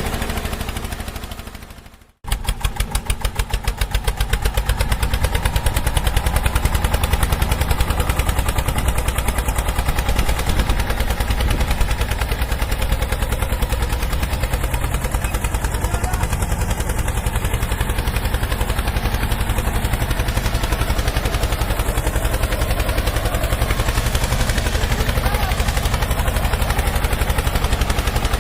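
Heavy vehicle engine sound effect, like a cartoon tractor's. A running engine fades out about two seconds in, then an engine starts abruptly and keeps running with a rapid, even chugging.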